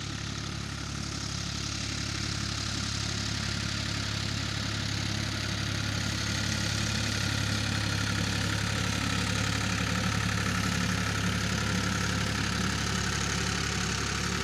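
Ford 3600 tractor engine running steadily, growing a little louder over the first few seconds and then holding an even note.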